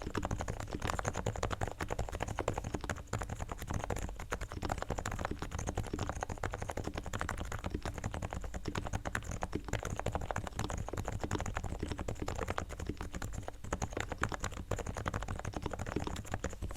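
Fast continuous typing on a Realforce R3 TKL silent keyboard with 45 g Topre electrostatic capacitive switches, fully tuned: sliders and springs lubed with Krytox, stabilizers straightened and lubed with XHT-BDZ, and Thinsulate sound dampening inside. The keystrokes come densely and irregularly.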